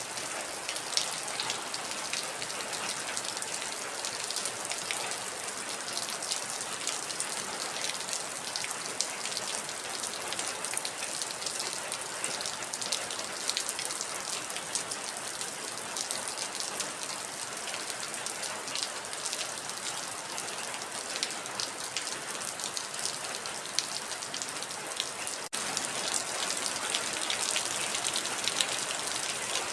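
Heavy rain falling steadily, a dense hiss with many individual drops ticking on a surface. The sound dips for a split second near the end, then carries on slightly brighter.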